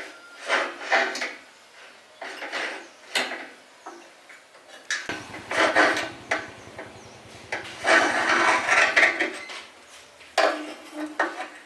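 Metal tools and parts clattering and scraping in irregular bursts, with a longer, busier stretch about halfway through.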